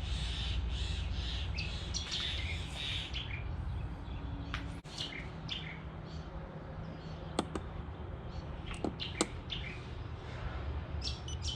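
Birds chirping in quick high calls, loudest in the first few seconds, over a steady low hum; a few sharp clicks come later.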